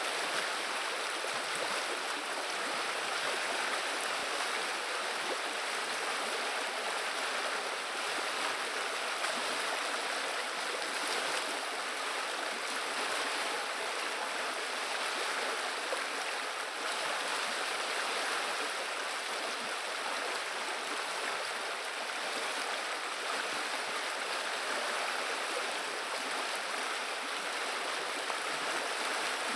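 River water running and babbling steadily, an even rushing murmur with no pauses or breaks.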